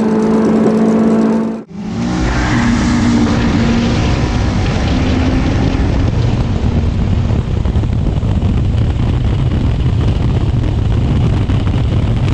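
Volvo 142 drag car's engine held at high revs under full-throttle acceleration, a steady high note. It cuts off abruptly under two seconds in and gives way to a loud, rough rumble of engine and wind noise.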